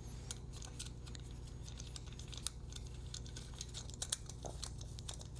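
Small, light clicks and taps of hands handling little microphone parts, as clip-on lavalier microphones are fitted onto a stereo bar, over a faint steady low hum.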